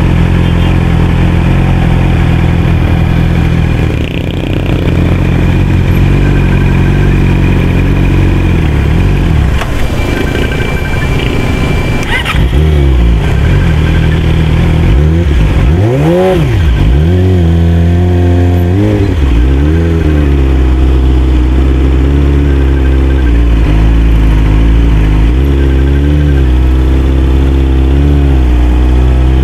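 Yamaha R6's inline-four engine idling steadily, then rising and falling in pitch several times about halfway through as the throttle is opened in slow traffic, then running at low revs with small throttle changes.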